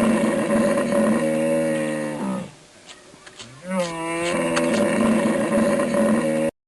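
Cow mooing: two long, steady, low calls, the second starting just under four seconds in after a short pause.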